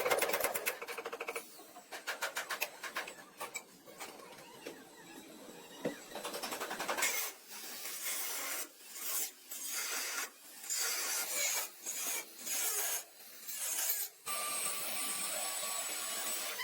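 Abrasive hand strokes on car bodywork, a rasping back-and-forth rubbing. The strokes repeat with short gaps in the middle of the stretch, then merge into steadier rubbing near the end.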